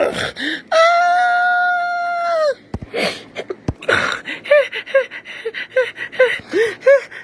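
A high voice screaming one long held note, then a quick run of short whimpering cries, about three a second.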